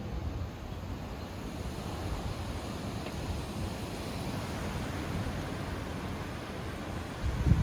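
Strong storm wind blowing steadily, with wind noise on the microphone. A brief, louder low rumble comes near the end.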